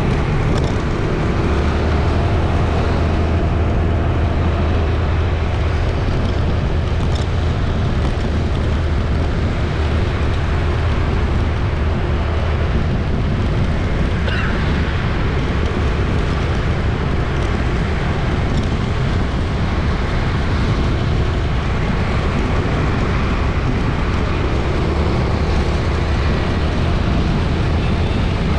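City street traffic: a steady, dense drone of passing engines and tyres, with a brief high tone about halfway through.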